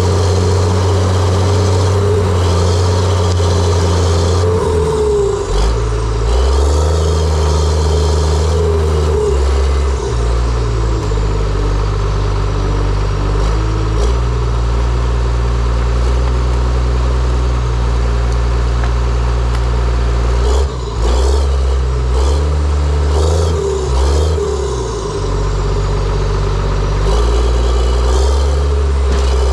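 John Deere 700J-II crawler dozer's diesel engine running under changing load, its pitch stepping up and down several times, with a few sharp knocks along the way.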